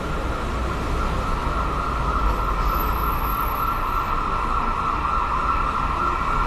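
City street noise: a steady low traffic rumble under a constant high-pitched emergency-vehicle siren.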